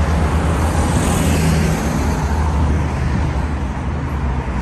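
Road traffic: a motor vehicle's engine rumble and tyre noise going by, the hiss easing off after about two seconds.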